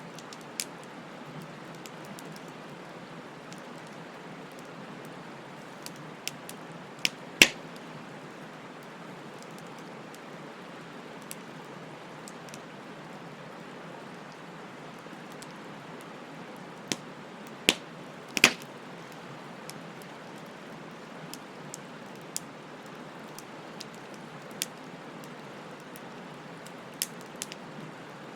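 Wood fire burning: a steady hiss with scattered sharp crackles and pops. The two loudest pops come about seven and eighteen seconds in.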